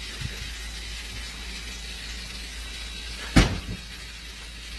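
Electric toothbrush running with a steady buzz, with a single sharp thump about three and a half seconds in.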